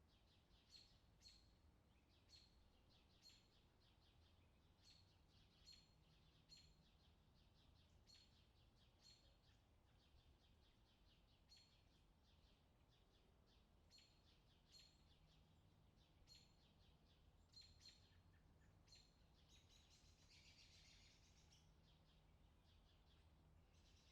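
Faint bird chirping: short single chirps repeated about once or twice a second, with a brief buzzy trill about twenty seconds in and again at the very end, over a low steady hum.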